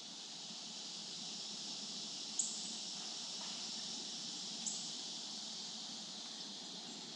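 Steady, high-pitched insect chorus droning without a break, swelling briefly twice.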